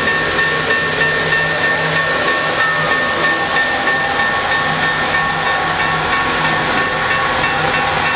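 Union Pacific 3985, a Challenger-type steam locomotive, letting off steam with a steady, loud hiss.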